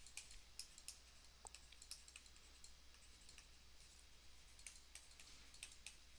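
Near silence: room tone with a low steady hum and faint, irregular clicks scattered throughout.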